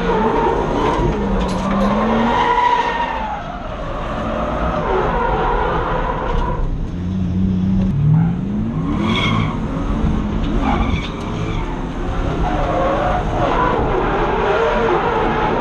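BMW M50B25 non-VANOS 2.5-litre straight-six heard from inside the drift car, revving up and down through a drift with tyres skidding. The revs drop off about seven seconds in and climb sharply again about a second later.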